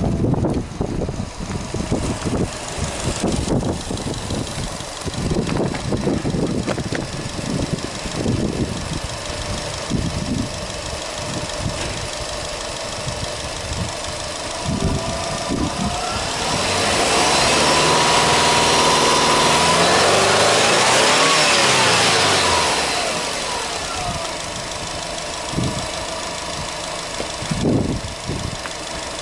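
Subaru Impreza 2.0S-GT's turbocharged 2.0-litre flat-four engine idling, then revved up with no load about sixteen seconds in, held high for about six seconds, and dropping back to idle.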